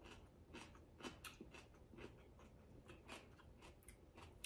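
Faint chewing of a mouthful of sauerkraut: soft, irregular crunches and mouth clicks, about three or four a second.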